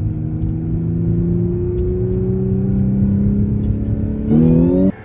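Audi S5 engine breathing through an aftermarket titanium cold-air intake, heard from inside the cabin, pulling under acceleration with its pitch slowly rising. Near the end the revs jump sharply higher and louder, then the sound cuts off suddenly.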